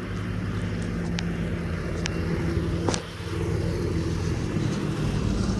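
A road vehicle's engine running close by with a steady low hum, over street noise, with a few sharp ticks.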